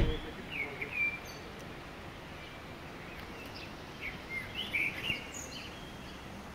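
A sharp bump right at the start, then a songbird calling in short high chirps: one cluster about a second in and another around four to five seconds in, over a steady background hiss.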